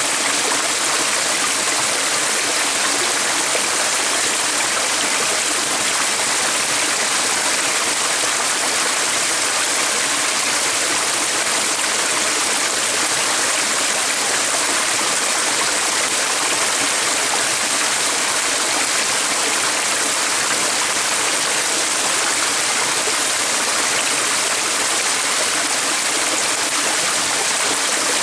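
Running water of a stream, a steady rushing hiss.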